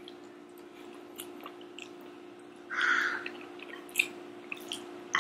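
Close-miked chewing of soft jajangmyeon noodles, with a louder slurp about three seconds in and a few small clicks, over a faint steady hum.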